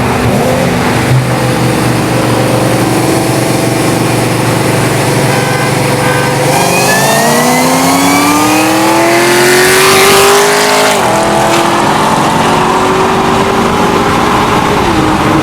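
Car engine at full throttle in a race run, its pitch climbing steadily through a gear and dropping suddenly at a shift about eleven seconds in, then climbing again to another shift near the end.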